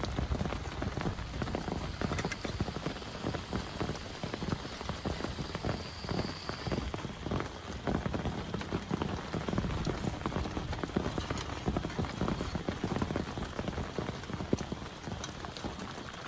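Heavy rain falling, dense drops pattering steadily on a surface.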